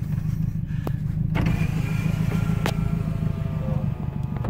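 Subaru Forester XT's turbocharged flat-four engine running, heard inside the cabin as a steady low rumble. A few sharp clicks and a faint whine come in the middle.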